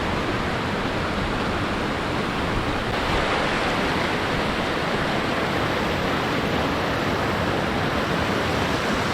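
Water pouring over a creek spillway: a steady, even rush that does not change.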